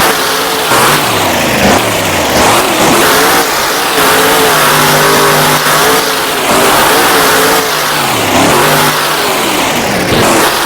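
Monster truck's supercharged V8 revving hard, its pitch rising and falling several times, with a longer held high rev in the middle.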